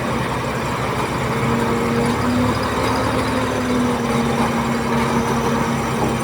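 Heavy diesel engine of earthmoving machinery running steadily, its pitch shifting slightly a couple of times.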